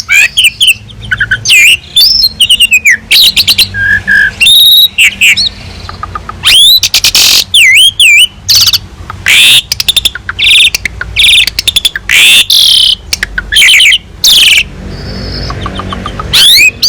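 Asian pied starling (jalak suren) singing a loud, varied song of quick rising and falling whistles, chirps and harsh notes, filled with phrases copied from other birds.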